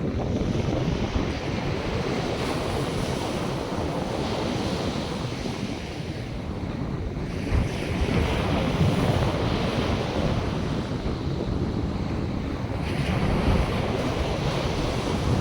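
North Sea surf washing onto a sandy beach in steady, swelling waves, with a stronger surge of hiss about eight seconds in. Wind rumbles over the microphone underneath.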